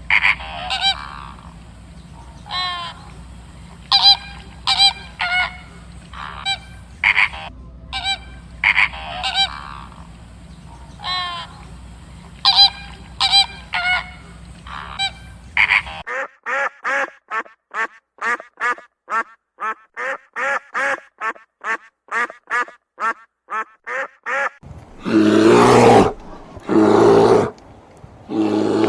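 Geese honking, a mix of short honks and longer calls over a low hum. After a cut about halfway through, a rapid even run of quacks, about three a second; near the end, a few long, loud calls from a larger animal.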